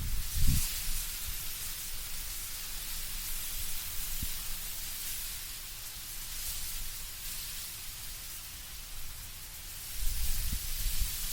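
Wind blowing through autumn trees, leaves rustling in a steady high hiss that swells and fades. Low rumbling gusts come at the start and again near the end.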